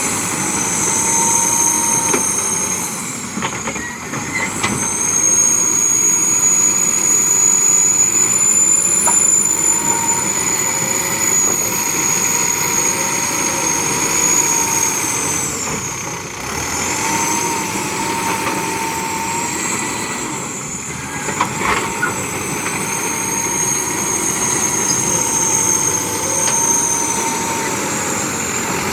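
Backhoe loader at work, its diesel engine running under load with a steady high-pitched whine that dips and recovers a few times. A few short knocks come about two-thirds of the way through.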